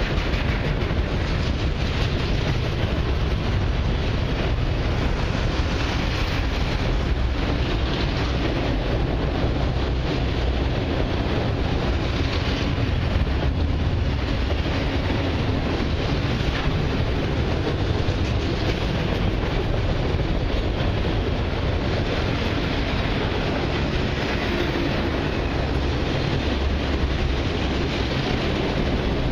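Autorack freight cars rolling past close by: a steady rumble of steel wheels on the rails.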